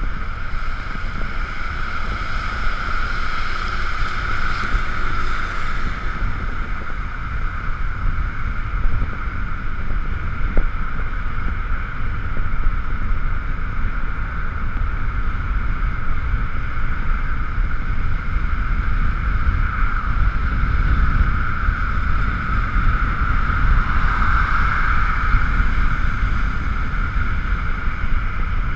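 Riding an Ekoway ML5000 electric scooter in the rain: wind rumbles on the camera microphone under a steady high-pitched whine that swells slightly twice.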